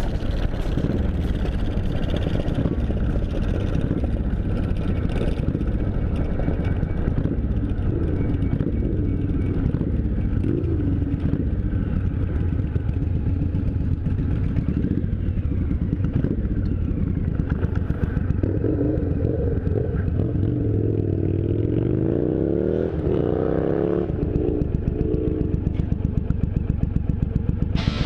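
Motorcycle engine running on the road. About twenty-two seconds in its pitch rises steeply as it accelerates, and near the end it settles into an even, pulsing beat at lower revs.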